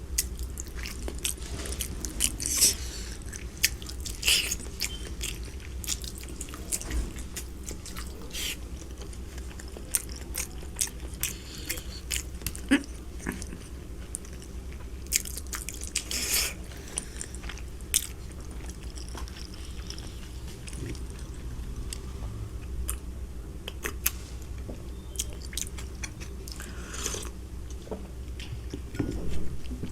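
A person eating white laphing, cold mung-bean jelly noodles: chewing with scattered short, wet mouth clicks and smacks over a steady low hum.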